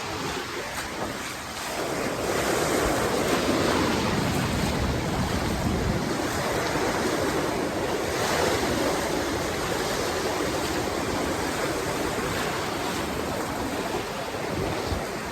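Ocean surf washing in, a steady rush that swells about two seconds in.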